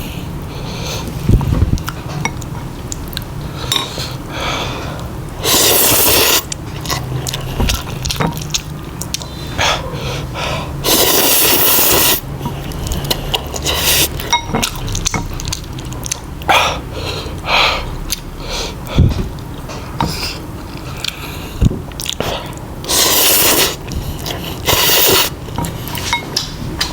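Close-miked mukbang eating sounds: chewing and mouth smacks, broken by four loud hissing bursts, each about a second long.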